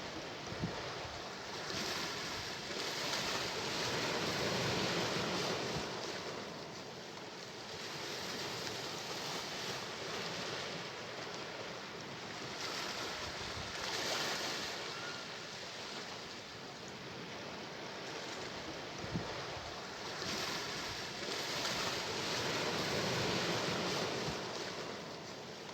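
Sea waves breaking and washing up a shore, the surf swelling and falling back every few seconds, with a couple of brief low thuds.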